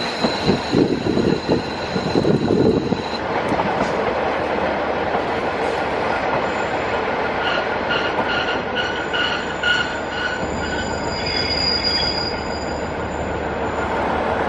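KiHa 48 diesel railcar running, heard from an open window as steady engine, wheel and wind noise. Over the first three seconds the wheels knock rapidly over rail joints under a high squeal. About halfway through, a ringing tone repeats about three times a second for a couple of seconds.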